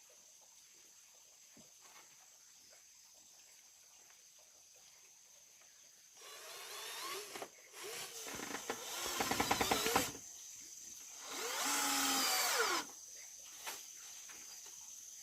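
Handheld power drill run in two short bursts, its pitch rising and falling as it speeds up and slows. The first burst ends in a fast rattle.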